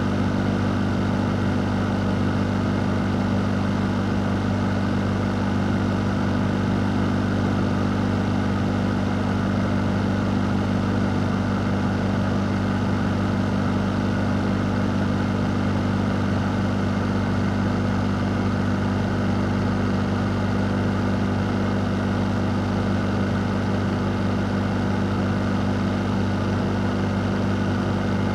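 Electric fan motor running steadily: a constant low hum under an even rush of moving air, with no change in speed.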